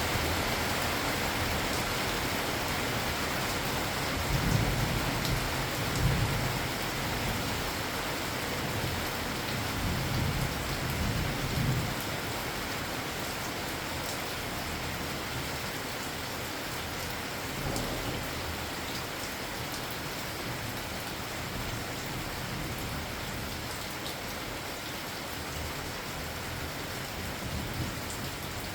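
Steady rain falling, with low rumbles of thunder about four seconds in, again around ten seconds in, and a fainter one past the middle.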